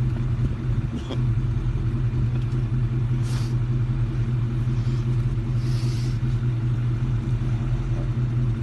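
1967 Ford F100's 352 big-block V8 running steadily with a low, even hum. Two brief faint hisses come in about three and six seconds in.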